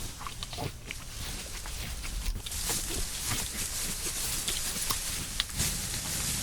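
Farm animals moving about outdoors: a steady hiss with scattered short knocks and clicks.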